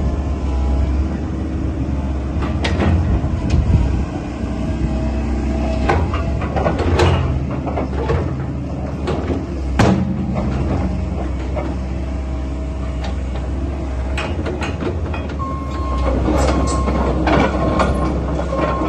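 Komatsu PC138US-LC tracked excavator's diesel engine running steadily under load. Frequent sharp metallic clanks and knocks sound over it, from the steel tracks and the bucket and quick hitch. A steady high tone joins in the last few seconds.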